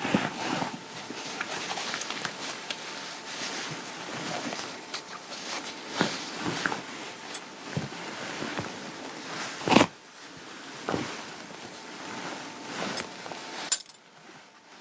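Clothing fabric rustling and rubbing as it is handled, with scattered small clicks and knocks, a sharper one near the middle and another near the end.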